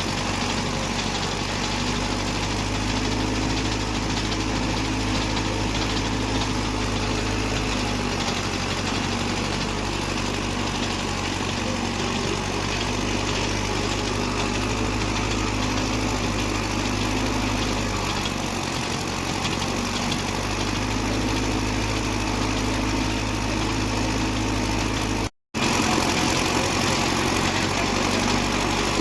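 Tractor diesel engine running steadily. The sound drops out for a split second about 25 seconds in, then carries on.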